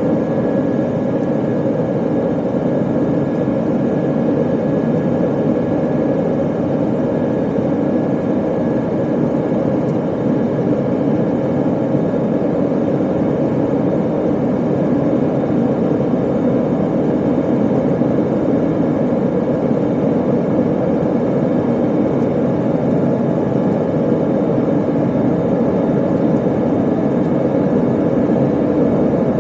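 Steady cabin noise of an Airbus A320 airliner climbing after takeoff: a constant low drone of the jet engines and rushing air, heard from inside the cabin.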